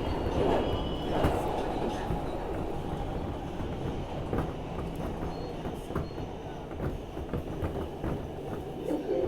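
R160B subway car running along the track, heard from inside: a steady rumble of wheels on rail with occasional clicks. A thin high tone, likely wheel squeal, fades out about a second in.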